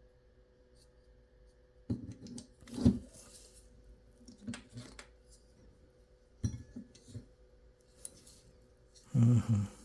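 A series of separate clicks and knocks from small hard computer parts being handled and set down, the loudest about three seconds in, over a faint steady hum.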